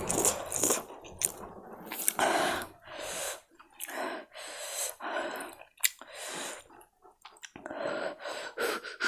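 A person chewing mouthfuls of spicy Korean instant noodles, close to the microphone, with short noisy breaths and mouth clicks about once a second.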